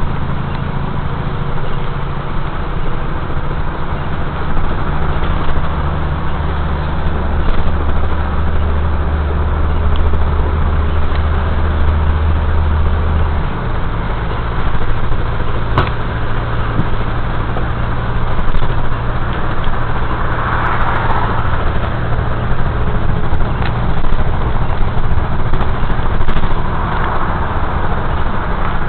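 A motor vehicle's engine running steadily over a constant noisy rumble; its low hum shifts to a higher pitch about halfway through.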